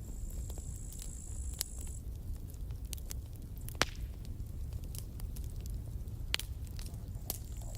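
Campfire burning: a steady low rumble of the flames with irregular sharp pops and crackles, the loudest pops about four seconds in and just after six seconds.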